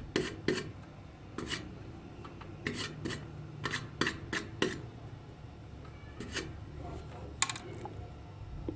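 A series of short, irregular scraping strokes, about a dozen, from hand work such as filing or sanding during a toy restoration.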